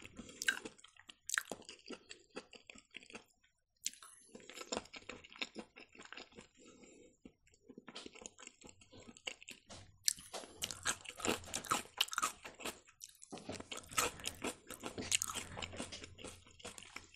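A person chewing a mouthful of fried mushrooms and boiled potatoes close to a lapel microphone. It is a run of small mouth clicks with short pauses, busier in the second half.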